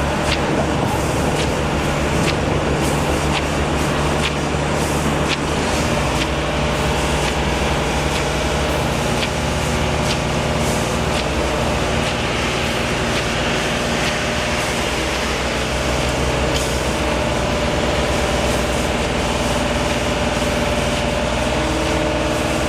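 A large engine running steadily, with a sharp tick about every two-thirds of a second that fades out about halfway through.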